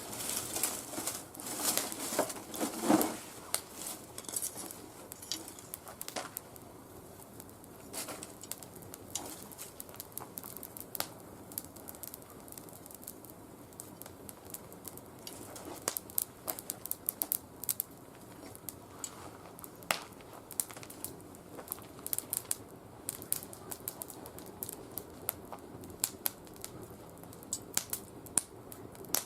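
Small oak twigs, not fully seasoned, burning in a wood fire and crackling with irregular sharp pops. A denser burst of crackle and rustle fills the first three seconds, then the pops come more sparsely.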